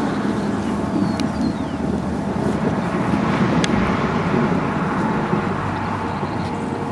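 A car driving, with steady road and engine noise and two brief ticks.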